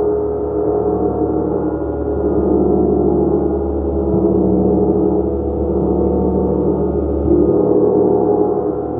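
Gong played as a continuous, sustained wash of many overlapping ringing tones, swelling and easing in slow waves with no distinct strikes; the deepest tones shift about four seconds in and again near the end.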